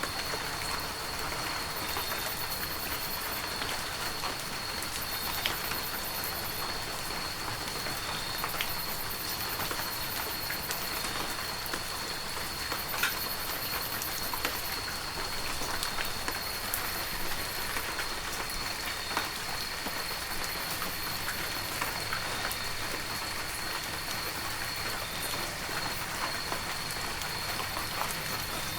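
Heavy rain falling steadily, with scattered sharper drop hits standing out from the even hiss. A thin, steady high-pitched tone runs beneath it.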